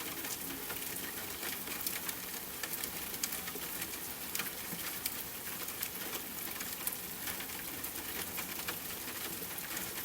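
Steady rain, a dense hiss with many sharp drop ticks, without music.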